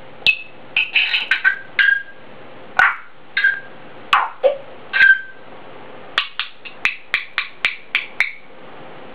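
African grey parrot making a string of short, sharp whistles and clicking squawks, several falling in pitch, then a quicker run of about four calls a second near the end.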